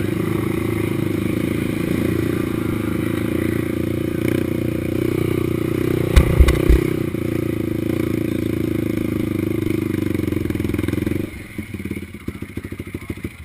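Racing ATV engine running steadily under throttle, with a couple of loud thumps about six seconds in. About eleven seconds in the engine note drops away to a quieter, uneven putter.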